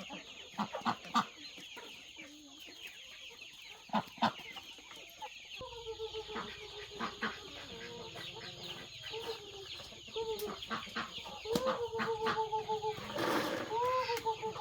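Chickens clucking, with a series of drawn-out repeated calls starting about halfway through, over a steady high-pitched chirping.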